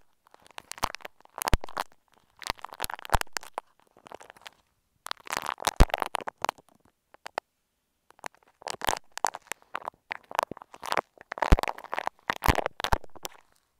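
Bumpy bead-textured clay squished and picked at right on an earphone microphone, giving close crunchy crackling in bursts about a second apart, with a short pause about halfway through.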